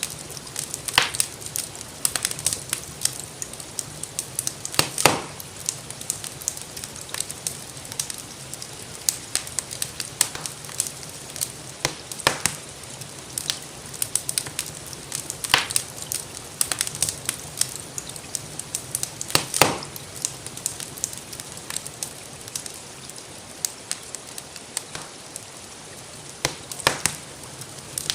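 Wood fire crackling in a fireplace, with frequent small snaps and a few louder pops, over a steady hiss of rain.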